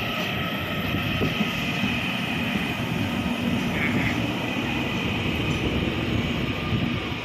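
Taiwan Railway EMU900 electric commuter train rolling slowly past as it pulls into the station: a continuous rumble of wheels on the rails with several steady whining tones over it.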